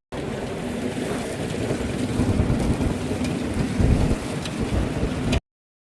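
Roar of Niagara Falls: a steady rushing noise of falling water with a rumbling low end, cutting off abruptly near the end.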